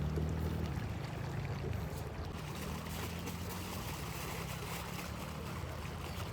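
An engine running steadily at low speed, its hum easing off about a second in, over a steady rushing noise.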